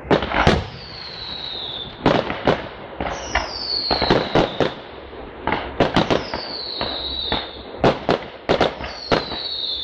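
Fireworks display: a rapid, irregular run of sharp bangs, with four whistling fireworks whose whistles fall slightly in pitch.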